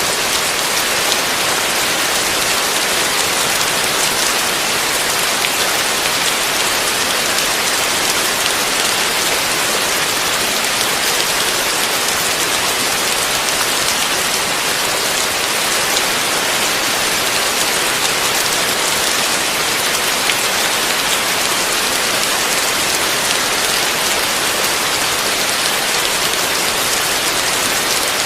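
Heavy rain falling as a steady, even hiss with no let-up.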